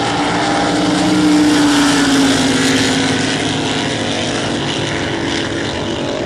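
Drag boat engines running at full throttle on a race pass. Their loud, steady tone rises slightly to its loudest about a second in, then slowly drops in pitch and fades a little.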